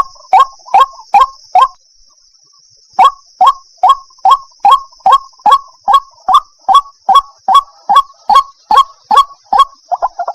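White-breasted waterhen (ruak-ruak) giving its repeated croaking call, about two and a half calls a second. The series breaks off for about a second about 2 s in, resumes as a long run, and turns into faster chattering right at the end.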